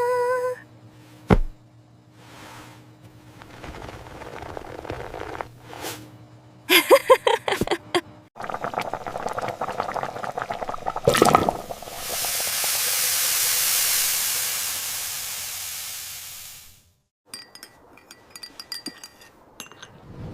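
A string of kitchen sounds: a sharp knock, then a quick cluster of ringing clinks of glass or crockery, followed by a long hiss that swells and fades over about five seconds, and a few small clicks near the end.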